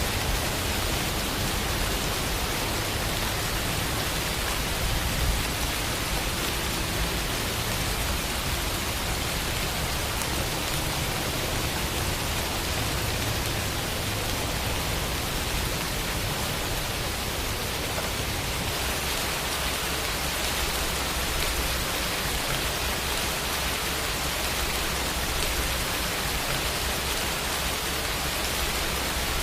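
Steady rain falling, an even hiss of many drops with no other sounds.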